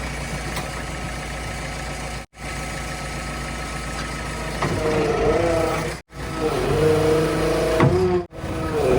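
Diesel engines of heavy machinery running, their pitch dipping and climbing back several times as they take load, in short stretches cut off abruptly twice.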